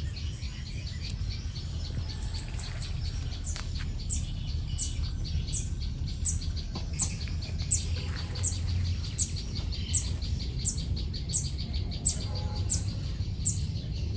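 A bird repeating a short, high, falling note about every three-quarters of a second, starting a few seconds in, over a steady high insect trill, with a low rumble underneath.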